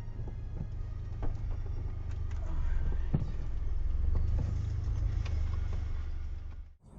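Car running on the road as heard through a dashcam, a steady low rumble with a few faint knocks, cut off abruptly near the end.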